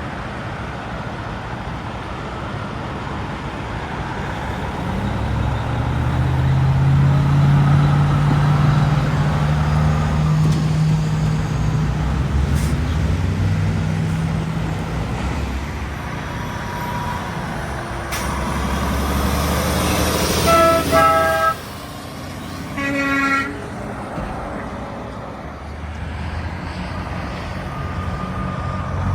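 A truck's diesel engine running loudly as it passes, followed by two short blasts of a truck horn about two-thirds of the way through, the first cutting off sharply.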